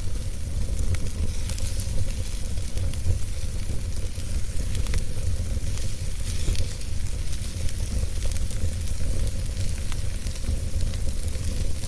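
Wood fire burning in a fireplace: frequent small, sharp crackles and pops over a steady low rumble of the flames.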